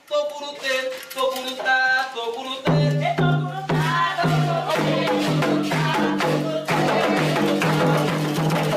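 Candomblé ritual music: voices singing a chant, joined about three seconds in by a steady, driving percussion beat of drums and rattle.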